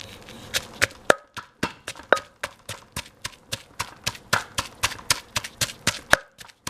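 Pestle pounding rhythmically in a mortar, about three strokes a second, crushing palm sugar into a paste of garlic, chilies and dried shrimp.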